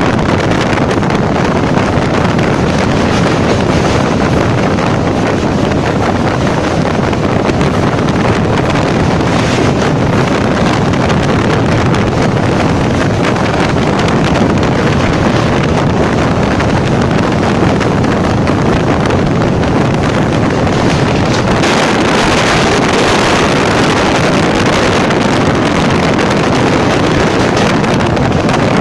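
Train running over a long steel truss bridge, heard from an open window or door: a steady, loud rush of running noise mixed with wind buffeting the microphone. The wind hiss grows stronger about two-thirds of the way through.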